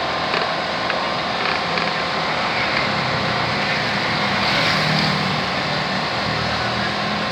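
Steady motor-vehicle traffic noise with an engine hum that swells as a vehicle passes about four to five seconds in, and a few faint clinks.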